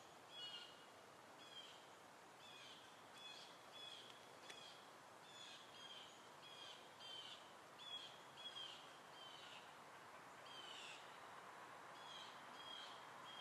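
Faint wildlife calling in the swamp at dusk: a string of short, high chirps, about two a second and some overlapping at slightly different pitches, over a quiet steady background hiss.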